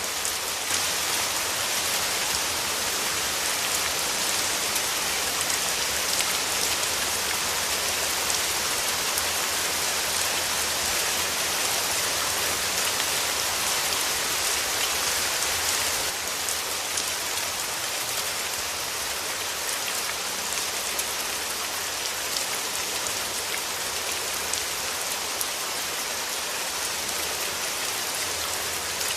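Steady rain falling, an even hiss of many drops on surfaces; it becomes a little quieter about halfway through.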